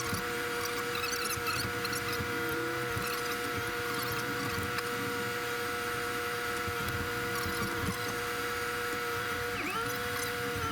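Deutz-Fahr 5120G tractor idling, heard as a steady hum with several held whining tones and a few small pitch glides near the end.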